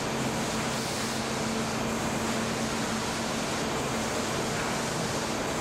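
Steady rushing air with a constant low machine hum, as from large running fans or ventilation machinery.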